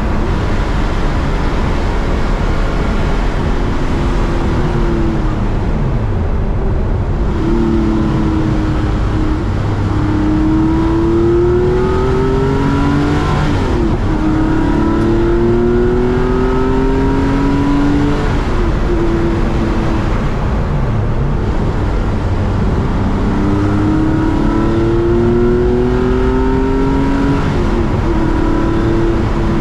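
Porsche air-cooled flat-six race car engine under hard load on track, revs climbing repeatedly and then dropping sharply, about every seven seconds, as it changes gear and slows for corners.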